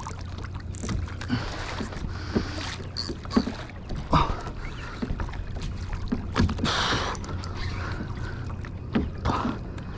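Water splashing and light knocks around a fishing kayak as a hooked fish is pumped in close, with a brief louder splash about seven seconds in.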